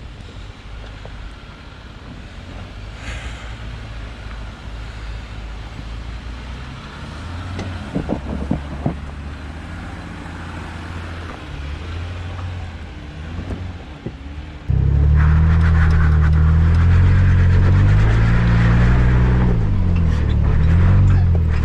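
Jeep engine running at crawling speed off-road, with a few short knocks about eight seconds in. About fifteen seconds in it abruptly becomes much louder, the engine note rising and falling as it works over the rocks.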